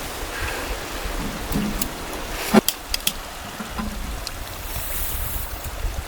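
Steady rush of a flowing mountain stream, with a few sharp clicks over it, the loudest about two and a half seconds in.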